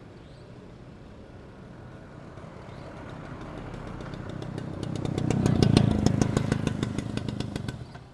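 A loud motorcycle approaches and passes by, its exhaust giving a rapid, even pulsing that builds to a peak about six seconds in, then drops away sharply near the end.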